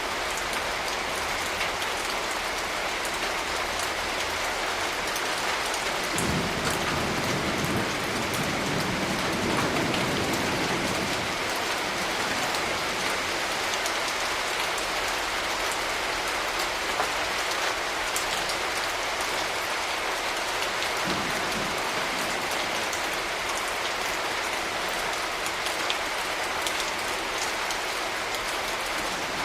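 Steady rain falling on surfaces. A low rumble of distant thunder swells about six seconds in and fades over several seconds, with a shorter, fainter rumble about two-thirds of the way through.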